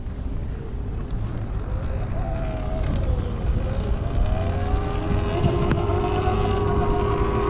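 Segway X160 electric pit bike's motor whining while riding, its pitch dipping and then rising with the throttle, over a steady low rumble of wind on the microphone.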